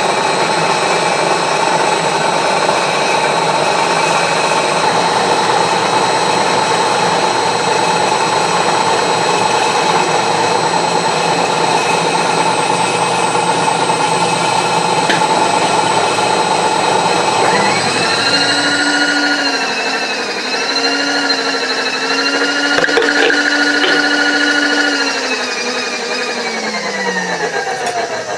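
Machine tool taking a skim cut across a hardened wood chipper blade clamped in a vice, a steady machining noise with a high whine. About eighteen seconds in, the cutting noise stops and a whining motor note wavers a few times, then slides down in pitch as the machine runs down.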